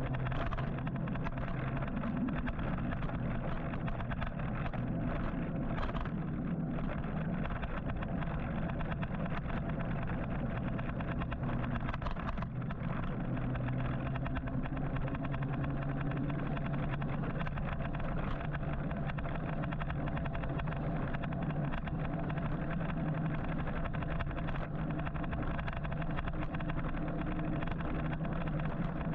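Steady city traffic and road noise heard from a moving electric motorcycle, with a constant low hum and a faint tone that rises slowly about halfway through.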